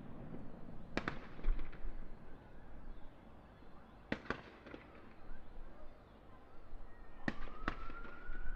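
Fireworks display: a sharp bang of a bursting shell about a second in with crackling after it, a pair of bangs a little past four seconds, and another pair near the end, followed by a rising whistle.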